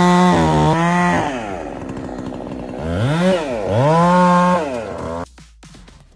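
Chainsaw revved to full throttle twice, each time held high for about a second before the revs fall back, with the engine dropping away about five seconds in.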